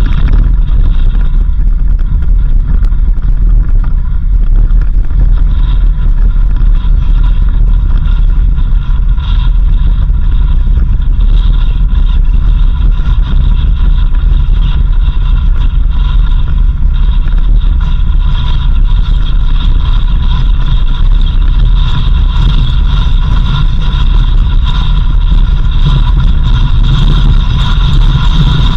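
Car driving on a dirt road: a loud, steady low rumble with a steady high whine above it.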